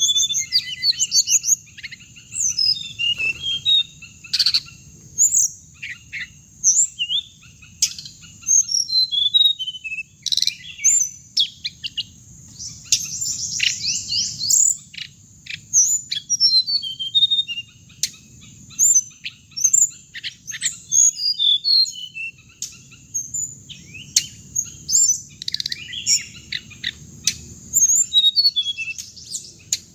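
Hồng hạnh songbird singing continuously, a fast, varied run of high whistled notes, chirps and short trills, some sweeping up or down, with a faint low rumble beneath. The recording is used as a speaker lure to call the bird in for trapping.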